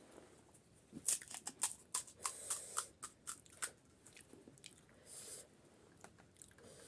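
Close-up chewing of pani puri, the crisp fried puri shells crunching in a quick run of sharp crackles about a second in, then slower, sparser chewing.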